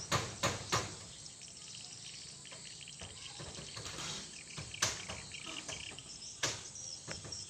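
Hammer blows, struck irregularly: three in quick succession at the start, a pause, then single strikes near the end, with a faint high chirring of insects between them.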